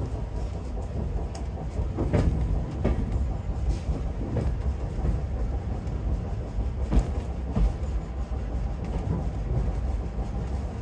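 Heritage railway train running along the line: a steady low noise of wheels on rails, broken every second or so by short knocks as the wheels cross rail joints.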